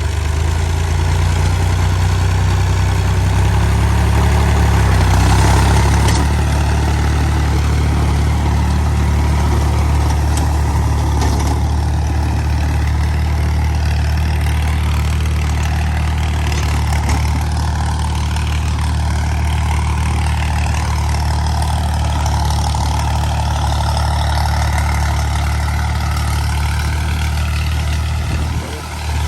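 Al-Ghazi 65 hp tractor's diesel engine running steadily, with a brief rise in engine speed about five seconds in.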